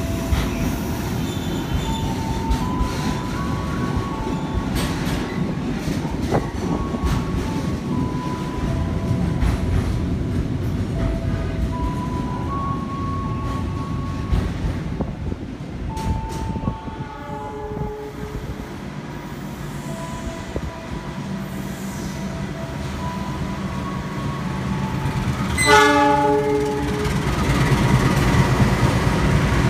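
Container freight wagons rolling past on the rails with a steady rumble and short squealing tones from the wheels. About 26 seconds in, a brief, loud locomotive horn blast sounds, the Semboyan 35 horn signal, followed by a heavier diesel locomotive rumble.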